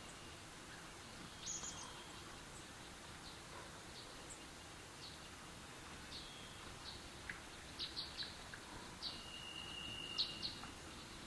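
Birds chirping: scattered short, high chirps over a steady background hiss, coming more often and louder in the second half, with one brief held whistled note.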